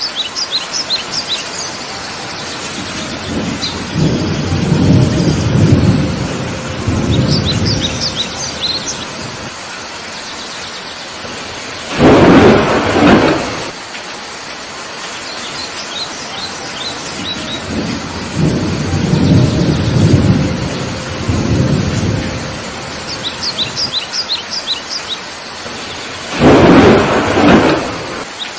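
Steady heavy rain with thunder: two low rolling rumbles and two loud thunder cracks about fourteen seconds apart. A bird chirps in quick runs of high notes several times.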